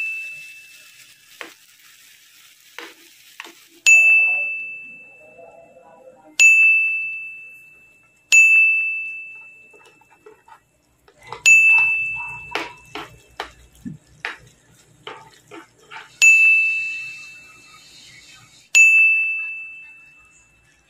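A bell-like ding repeated six times, each a single high chime that rings out and fades over about two seconds. Faint clicks and scrapes of a utensil stirring food in a frying pan sound between the chimes.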